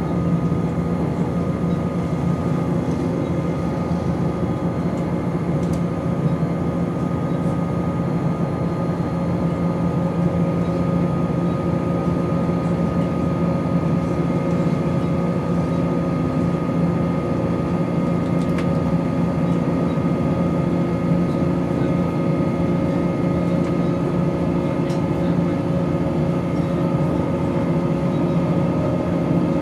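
Onboard a Class 170 Turbostar diesel multiple unit under way: the underfloor diesel engine drones steadily, with a steady high-pitched whine on top whose cause is not known.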